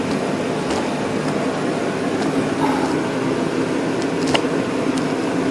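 Steady fan hum, with a single light click about four seconds in.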